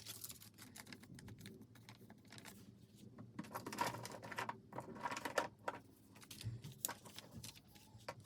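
Faint, irregular tapping and rustling of paper and craft materials being handled, with a cluster of louder taps and rustles from about three to six seconds in.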